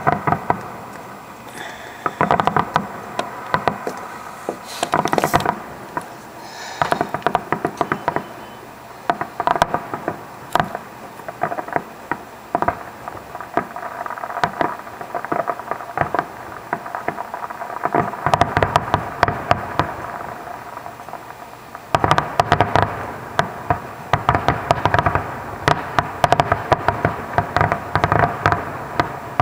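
Fireworks finale: aerial shells bursting in rapid barrages of sharp bangs and crackles, coming in clusters with short lulls between. The barrage is heaviest in the second half.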